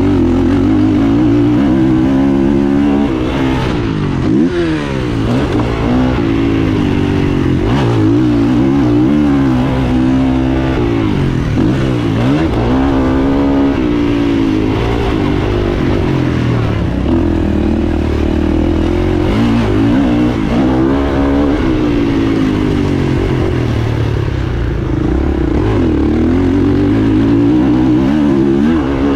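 Kawasaki KX450F motocross bike's single-cylinder four-stroke engine heard onboard, revving up and dropping back again and again as the rider accelerates, shifts and rolls off through the track.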